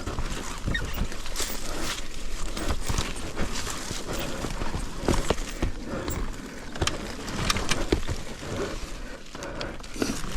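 Irregular clatter of knocks and clicks, with no steady engine note.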